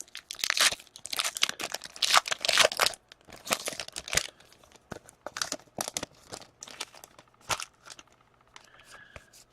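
Hockey card pack being torn open, the foil wrapper crinkling. The crinkling is thickest over the first three seconds, then thins to lighter scattered crinkles and clicks.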